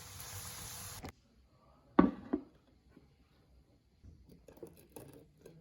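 Water running from a tap, cut off abruptly about a second in. About a second later comes a loud double knock, then faint light clatter.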